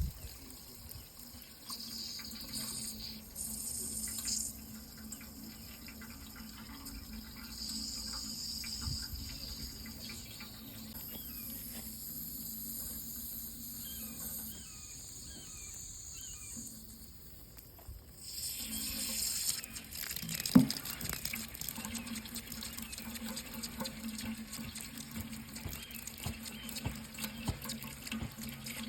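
Water running from a tap into a sink, with a steady low hum beneath it. The flow sound dips and changes a little past the middle, and one sharp knock follows soon after.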